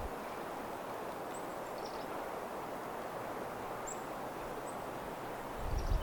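A steady soft outdoor rush, with a few brief, faint high-pitched bird chirps scattered through it and a low thump near the end.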